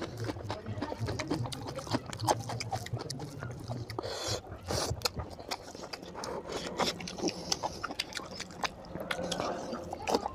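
Close-up wet eating sounds from chewing oily mutton curry: many short smacks and clicks of lips and mouth, with a longer slurp about four to five seconds in.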